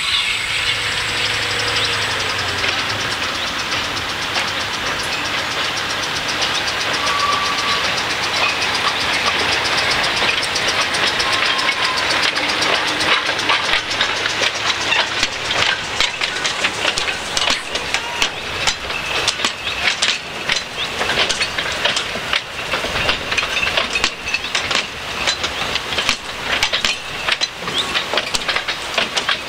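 Steam hissing from narrow-gauge steam locomotives at first. Then a narrow-gauge passenger train hauled by a small diesel locomotive rolls past close by, its wheels making a long run of quick clicks over the rail joints that grows denser from about halfway.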